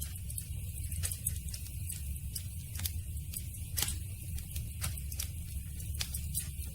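Campfire burning: wood crackling with sharp, irregular pops over a steady low rumble.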